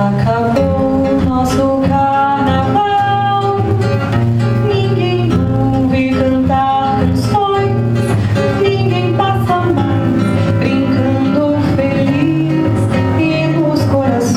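Violão (Brazilian acoustic guitar) playing the accompaniment to a slow marcha, with plucked and strummed chords.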